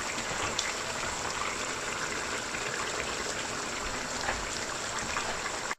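Chicken curry boiling in the pot on high heat: a steady bubbling hiss with a few small pops, cut off suddenly near the end.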